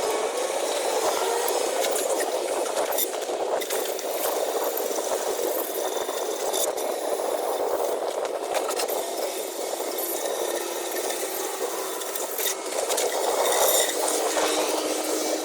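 Steady rushing noise with scattered light clicks, rattles and scrapes of hand tools and small parts during work on an engine.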